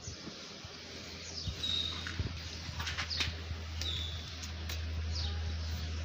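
Small birds chirping with short falling calls and a couple of brief high whistles, over a low steady hum that comes in about a second and a half in, with a few sharp clicks.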